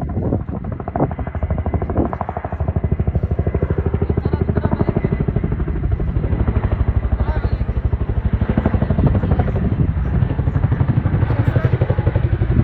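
Helicopter running in flight, its rotor beating in a fast, even pulse over the engine's steady drone.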